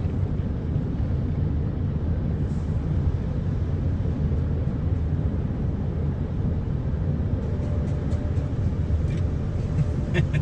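Steady low mechanical rumble of an idling car and car wash tunnel machinery, with a few light clicks in the last few seconds.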